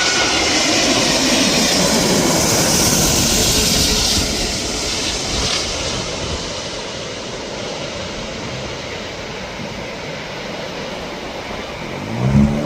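Jet airliner passing low overhead on final approach to land: a loud engine roar with a high whine that peaks a few seconds in and then slowly fades as the plane moves away. A brief pitched sound comes in at the very end.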